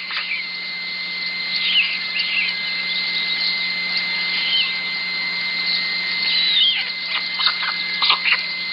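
Outdoor animal ambience: a steady hiss with a constant high tone and a low hum, with scattered short chirping calls and clicks that come more often near the end.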